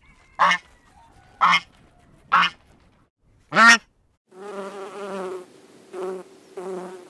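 Geese honking four times, about a second apart. From about four seconds in, a honeybee buzzing in short bouts.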